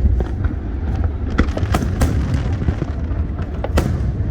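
Fireworks going off: a string of sharp bangs and pops from aerial shells bursting, the loudest a little before the end, over a constant low rumble.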